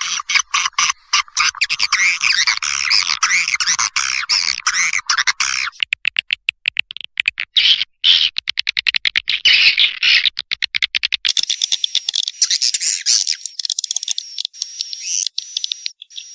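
Recorded swiftlet calling sound used as a lure. Dense twittering chirps give way about six seconds in to sparser trains of rapid clicks, and from about eleven seconds to higher, steadier buzzing chirps.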